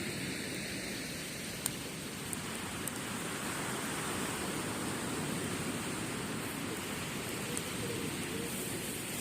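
Steady wash of waves breaking on a beach, with a few sharp pops from a crackling wood campfire.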